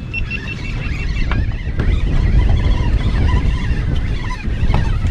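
A fishing boat's motor running, a steady low rumble, with wind buffeting the microphone.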